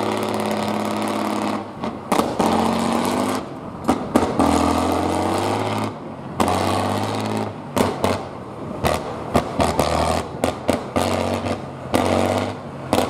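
Trial truck's diesel engine running under varying throttle, its pitch rising and falling as it revs and eases off. Sharp knocks and clatter sound in between, most of them in the second half.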